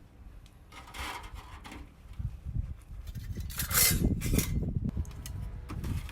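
Scraping and rubbing as objects are handled: a short burst about a second in and a longer, louder stretch in the middle, over a low wind rumble on the microphone.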